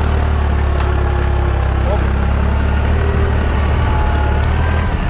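Deutz 55F tractor's diesel engine running steadily while pulling a sweep cultivator through the field.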